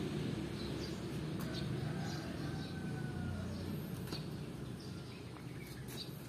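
Steady low outdoor rumble with faint, scattered bird chirps and one soft drawn-out call about a second and a half in.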